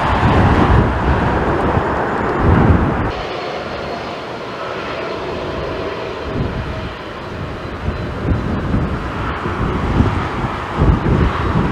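Jet airliner engines, loud for the first three seconds and then dropping to a lower, steadier rumble with a faint whine, while gusts of strong wind buffet the microphone.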